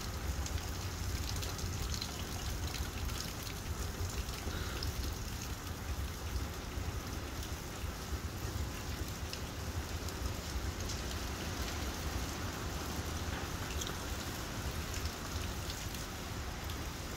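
Steady rain falling, with scattered close drops ticking against a constant low rumble.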